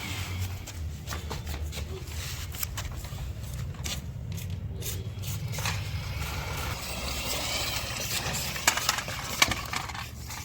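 Plastic toy vehicles being handled and rolled on a hard surface: a steady low rumble of wheels with scattered clicks and scrapes, and two sharp knocks near the end.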